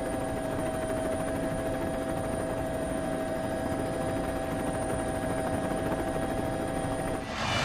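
Steady machine hum holding several constant tones, giving way near the end to a sudden louder, noisier sound.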